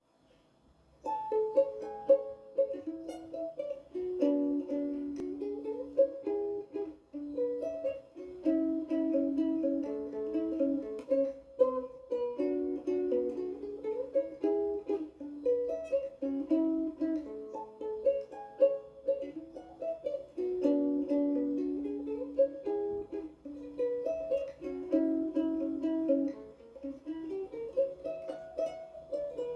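Solo ukulele fingerpicking a flowing melody of quick, ringing plucked notes, beginning about a second in.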